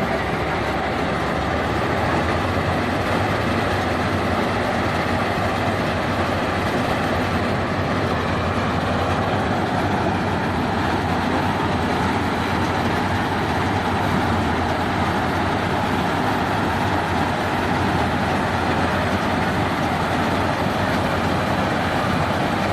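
Combine harvester running steadily at work: a constant dense machine noise over a low engine hum, with no change in pace.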